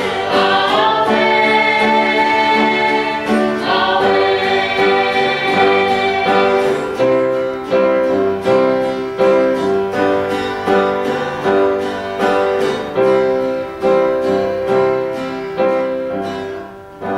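Gospel song in church: singers over instrumental accompaniment, then an instrumental passage of evenly struck notes from about halfway, which dies down near the end.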